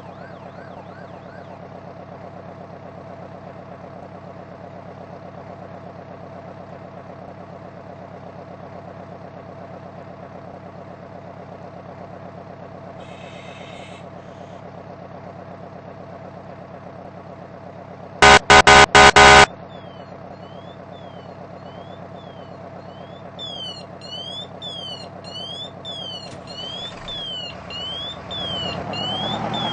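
Fire apparatus diesel engine running steadily, broken about 18 seconds in by a quick series of loud air horn blasts. From about 23 seconds an electronic siren sweeps rapidly up and down in a yelp pattern.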